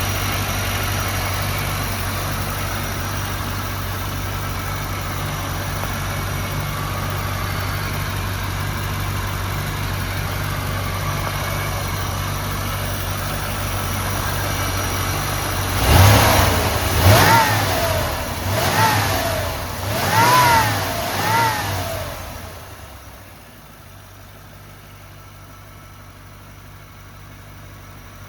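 A 5.7-litre tuned-port-injection V8 idles steadily in the engine bay, then is revved in about five quick blips, each rising and falling in pitch. The sound then drops much quieter for the last few seconds.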